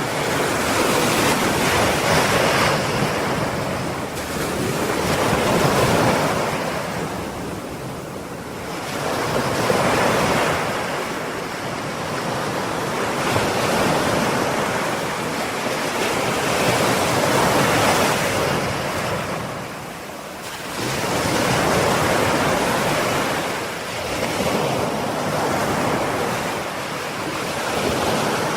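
Ocean surf: waves breaking and washing in a continuous rushing hiss that swells and ebbs every few seconds, with a deeper lull about two-thirds of the way through.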